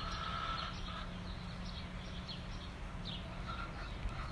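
Small birds chirping outdoors: short, high, falling chirps a few times a second, over a steady low rumble.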